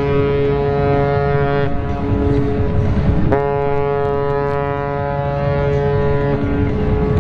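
Large ship's horn sounding long, steady blasts: one ends about one and a half seconds in, and another starts about three seconds in and lasts about three seconds. A fainter, lower horn sounds in the gap between them.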